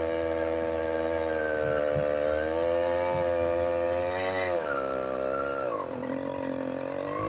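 Small motorized-bicycle engine running under way, its pitch wavering with speed; it drops off about two-thirds of the way through as the throttle eases, then picks up again near the end.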